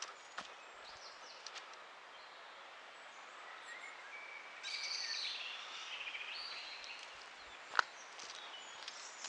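Small birds chirping and singing over a faint outdoor hiss, with a louder spell of song about halfway through and a single sharp click near the end.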